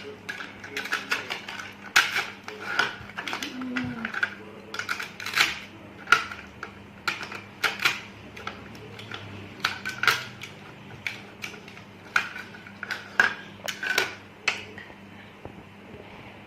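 Cutlery clicking and tapping against a plate in quick, irregular strokes as pizza is cut up, the clicks stopping near the end.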